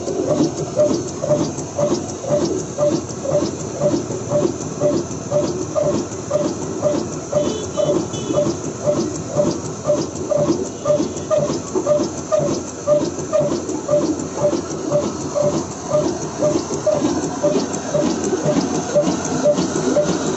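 Old black single-cylinder desi diesel engine, a 22 hp Ruston-type, running steadily at slow speed. It chugs evenly at about two and a half beats a second.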